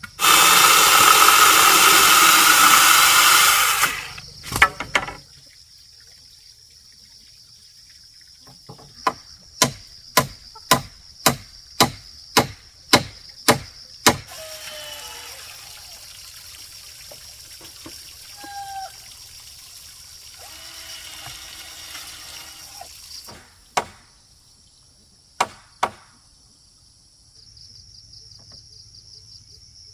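A loud rushing noise for about four seconds, then a run of about ten sharp knocks at about two a second, and three more knocks near the end, with insects droning steadily throughout.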